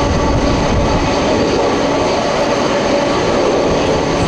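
Jet engines of a Boeing 747-400 freighter running steadily: a loud, even rumble with steady whining tones on top.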